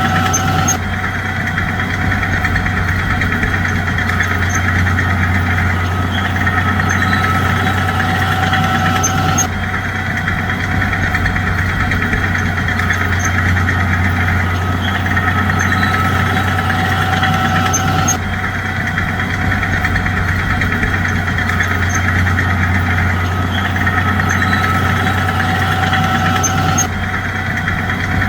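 Bulldozer engine running steadily with a low, even drone and a knocking note, the same roughly nine-second pattern repeating over and over.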